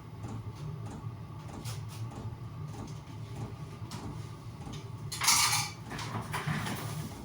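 Small knocks and clatter of objects being handled, with a louder scrape or rustle about five seconds in, over a steady low hum.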